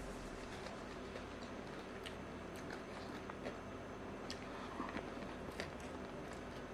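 Close-up chewing and eating sounds of a person eating rice and side dishes with her hands: scattered soft clicks and smacks, about one or two a second, over a faint steady room hum.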